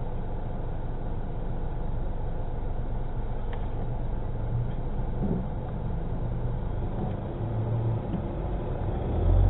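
Vehicle driving on the road: a steady low rumble of engine and road noise with no distinct events.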